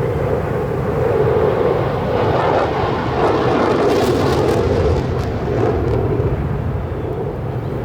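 Blue Angels jet aircraft flying past, a loud steady jet roar that is strongest in the middle and eases off near the end.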